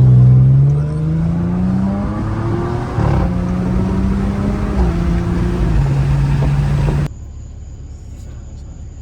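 Car engine with both mufflers removed, accelerating hard: its pitch climbs over the first two seconds, changes sharply about three seconds in, holds steady, then steps lower. About seven seconds in it cuts suddenly to a much quieter low rumble.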